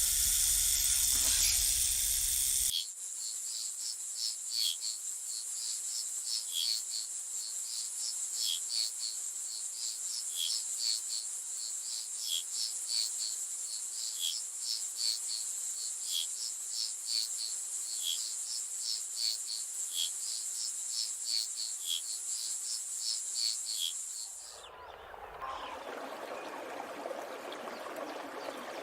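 A loud hiss cuts off about three seconds in and gives way to insects buzzing, a steady high drone with a regular pulsing chirp. Near the end this switches to the rushing of running water.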